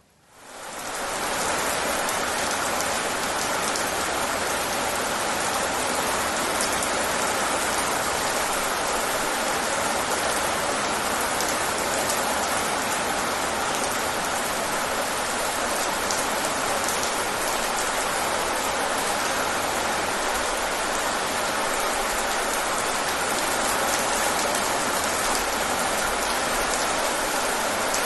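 Steady rain, a dense even patter of drops, fading in over the first second or two and then holding level.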